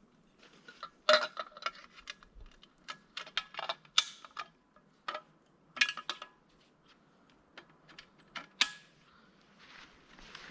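Irregular sharp clicks and knocks of small hard objects being handled, thinning out near the end.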